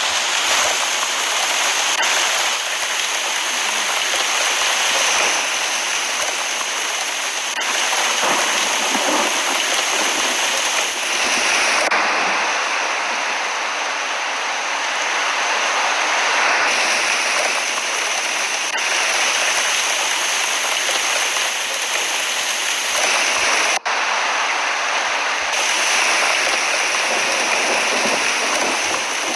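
Heavy rain pouring down, a loud steady hiss broken by several abrupt cuts.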